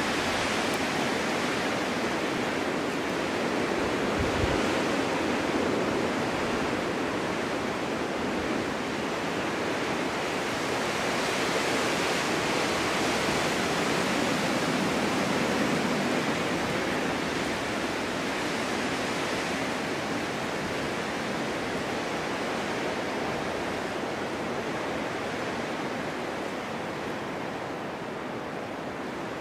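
Winter storm wind blowing steadily, a continuous rushing that swells gently and eases a little toward the end.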